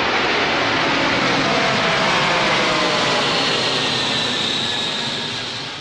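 Turbofan engines of an Antonov An-124 jet transport as it passes, a dense engine noise with a faint whine that slowly falls in pitch. The sound fades over the last second.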